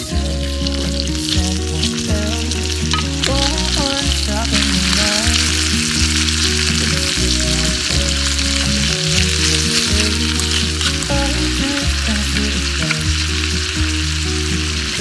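Food sizzling and frying in a hot pan, a steady crackling hiss throughout, over background music with a stepping bass line.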